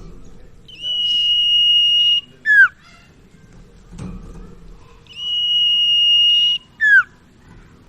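Common iora singing: twice, a long steady high whistle of about a second and a half, then a short note sliding down in pitch.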